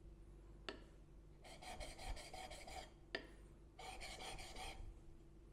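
Steel chisel bevel rubbed on a wet 600-grit diamond sharpening plate in two bursts of quick short strokes, each a little over a second long. A light click comes before each burst as the blade meets the plate.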